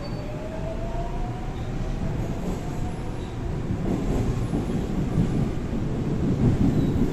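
Seoul Line 4 4000-series Daewoo–Alstom GTO VVVF electric train running, heard on board. A thin motor whine rises in pitch over the first few seconds as the train gathers speed. Under it is the rumble of wheels on rail, which grows louder from about four seconds in.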